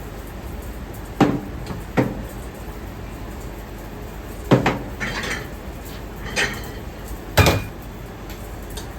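Kitchenware in a ramen shop kitchen clattering: five sharp knocks and clanks of dishes, pots or utensils set down or struck, spaced unevenly over a steady background hum.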